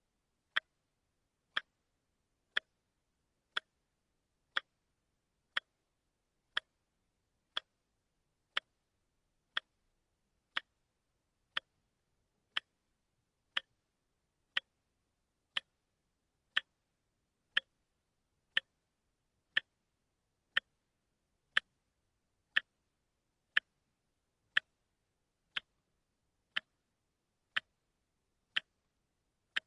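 A watch ticking steadily, one sharp tick about every second.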